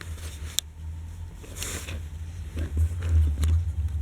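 Die-cast toy trains being handled and coupled: a sharp click a little after the start and a few lighter clicks and rustles over a steady low rumble.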